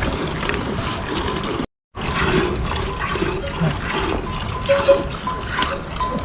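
Water running or splashing in a steady rush, with a brief dropout a little under two seconds in.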